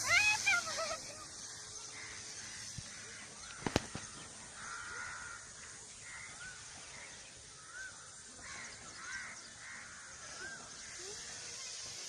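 Birds calling: a loud wavering call right at the start, then a string of faint short chirps. One sharp click cuts in about four seconds in.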